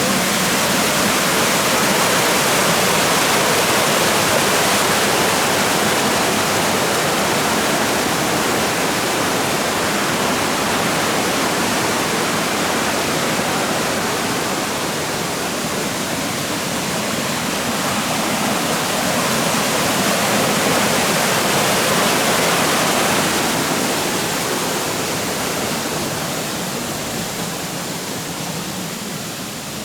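Rushing water of the river flowing over rocks and small cascades in a shallow water forest, a steady loud rush that fades somewhat over the last few seconds.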